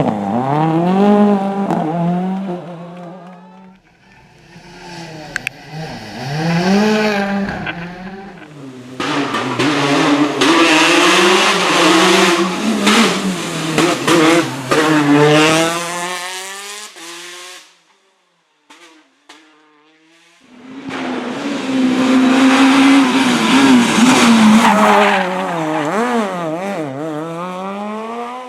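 Rally cars driven flat out on a special stage, one after another, each engine climbing in pitch and dropping back sharply at every gear change and lift off the throttle. There is a brief lull about two-thirds of the way through before the next car comes through at full throttle.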